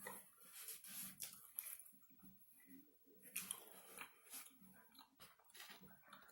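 Close-up mouth sounds of a person chewing food: soft, irregular wet clicks and smacks, with a few louder bites about a second in and again between three and four and a half seconds in.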